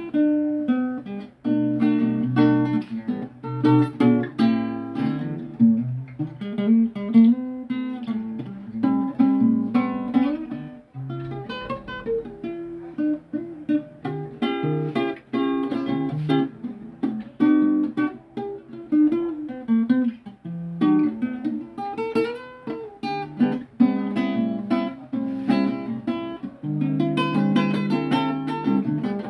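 Improvised instrumental music: a plucked string instrument playing a continuous run of chords and single notes.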